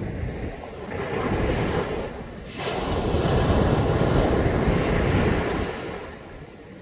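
Caribbean sea waves breaking on a beach: one wave washes in about a second in, and a louder one breaks at about two and a half seconds and washes up for a few seconds before fading near the end.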